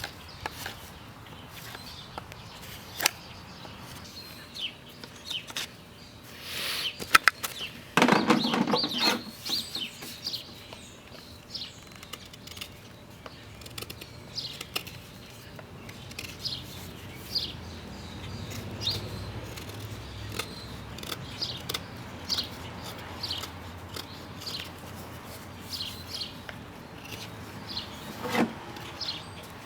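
Small birds chirping again and again with short high downward calls, over a few sharp knocks and a brief loud scraping rustle about eight seconds in.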